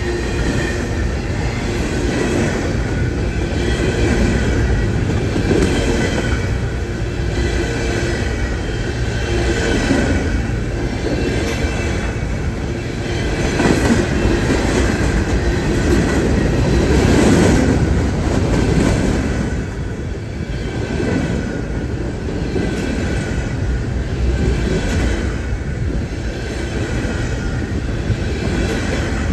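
A train rolling past on the rails, its wheels and cars running steadily throughout and loudest about halfway through.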